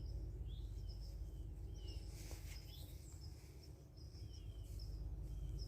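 Birds chirping in woodland: short high chirps repeating about once or twice a second, with a few lower slurred calls, over a low steady rumble.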